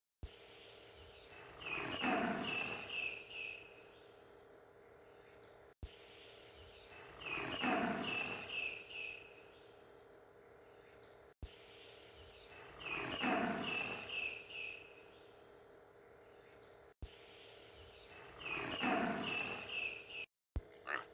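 An animal call, the same short recording played four times about every five and a half seconds. Each copy has one loud call followed by a quick run of about five higher notes.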